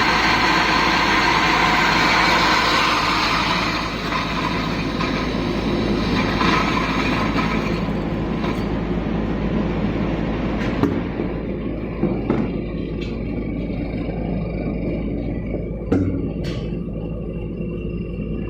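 Stainless steel universal disc grinder running, a steady dense mechanical rumble; about halfway through the higher part of the noise fades, and a few sharp clicks come near the end.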